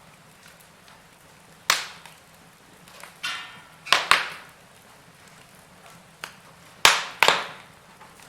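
Log fire crackling: about five sharp pops and snaps from the burning wood, two of them close together near the four-second mark and two more near seven seconds, with a brief hiss a little after three seconds in.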